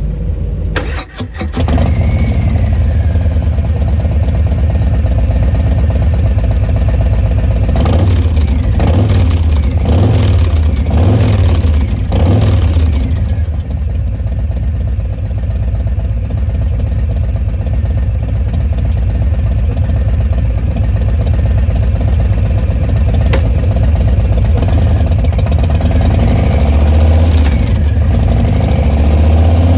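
2021 Harley-Davidson Fat Boy 114's Milwaukee-Eight V-twin breathing through a Bassani Pro Street Turnout exhaust. It starts about a second in and settles into a lumpy idle. It is blipped several times between about eight and thirteen seconds in, idles again, and is revved once more near the end.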